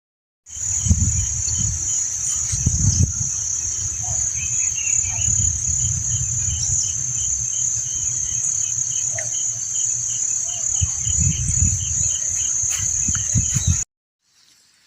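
Insects, crickets or cicadas, calling in one steady, high-pitched, unbroken buzz, with a fainter chirp repeating about twice a second beneath it and a low rumble. The sound cuts off abruptly near the end.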